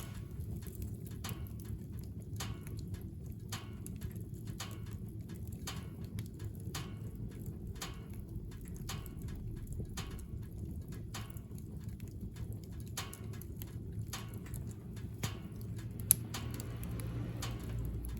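Wood burning in a wood stove, crackling with irregular sharp snaps over a low steady rumble, and one louder pop about sixteen seconds in.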